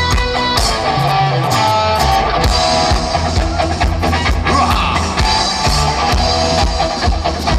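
Instrumental rock passage with no singing: guitar playing over drums and bass, with a steady beat.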